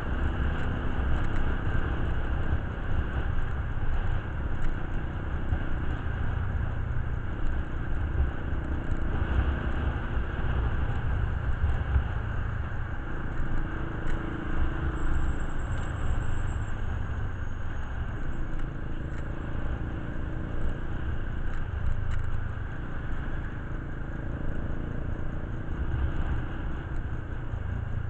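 Low, steady rumble of a running motor vehicle engine, swelling and easing unevenly.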